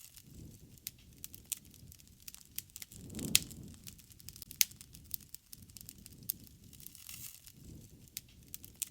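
Wood fire crackling: irregular sharp pops and snaps over a low rushing that swells and fades every couple of seconds.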